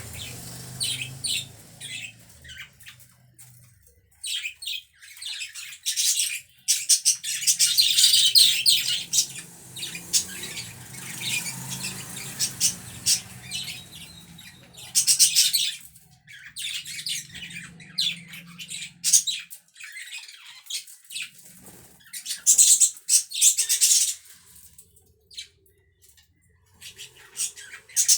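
Budgerigars chattering with rapid chirps and squawks that come in louder flurries every several seconds.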